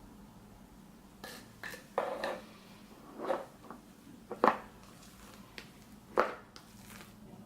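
A utensil clinking and scraping against a mixing bowl in short, irregular strokes as slime is stirred, the loudest strokes about four and a half and six seconds in.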